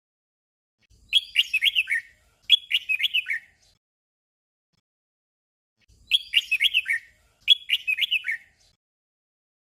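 Red-whiskered bulbul singing a short, simple song phrase twice in quick succession. Each phrase lasts about a second, and the doubled phrase comes twice, the pairs about five seconds apart.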